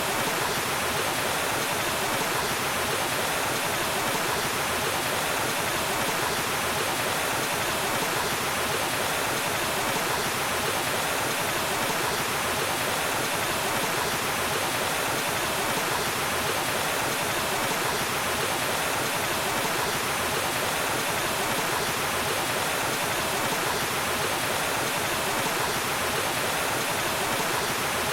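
A waterfall: water falling and rushing in a steady, unbroken roar.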